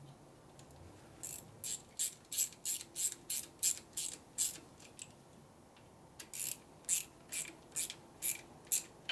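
Hand ratchet worked in short strokes: a run of about ten quick ratcheting bursts, a pause of over a second, then about eight more.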